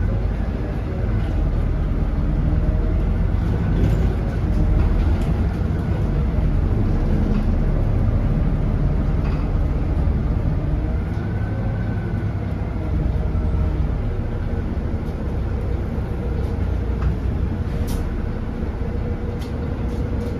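Volvo B7RLE bus's six-cylinder turbodiesel running steadily as the bus drives, a deep rumble with a faint turbo whistle that rises and falls in pitch.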